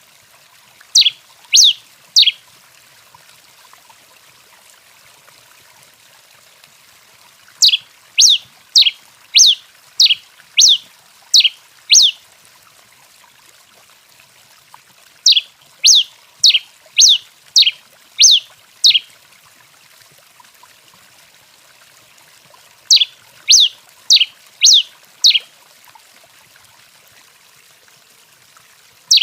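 A tico-tico-rei finch (Coryphospingus) singing in bouts of sharp, high, downward-slurred notes. There are three notes about a second in, a run of about eight around the middle of the first half, seven more a little after halfway, and five near the end, with pauses between the bouts.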